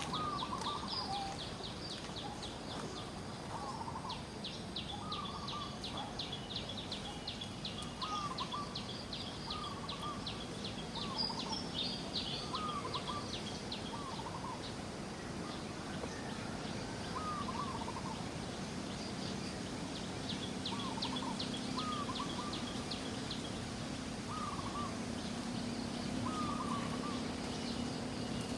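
Outdoor nature ambience: a bird repeats a short, dipping call about once a second over a fast, high trill of chirps. A low steady hum comes in about two-thirds of the way through.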